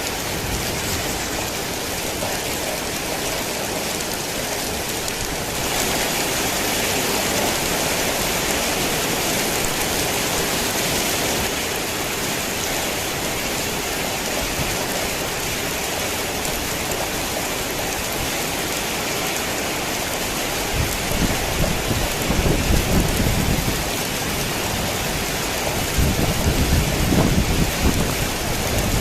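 Heavy rain falling in a steady downpour, with two spells of low rolling thunder rumbling through it in the second half.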